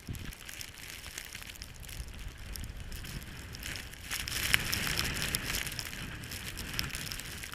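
Skis sliding and scraping over snow, a steady hiss over low wind rumble on the microphone, louder from about four to six seconds in.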